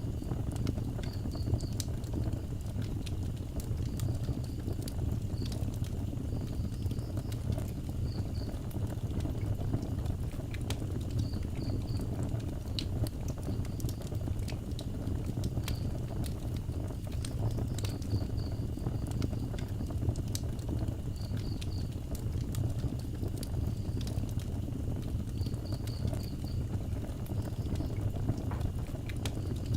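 Wood fire burning, with frequent sharp crackles and pops over a steady low rumble. Short high chirps come in small groups of two to four every few seconds.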